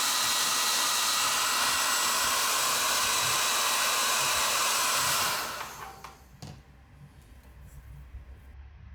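Electric hot-air blower running steadily, heating a rubber spark plug boot to soften and expand it; it is switched off about five and a half seconds in and dies away, followed by a faint click.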